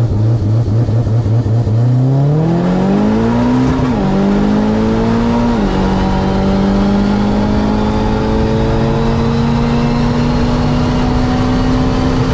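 Drag car engine pulsing choppily at low revs on the start line, then launching and revving hard. Its pitch climbs and drops suddenly twice, about four and six seconds in, as it shifts up, then it runs at steady high revs.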